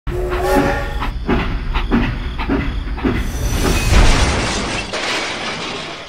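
Train sound: a horn blast, then rhythmic chugging a little under twice a second, then a loud crashing rumble about four seconds in that dies away, as a toy steam locomotive derails.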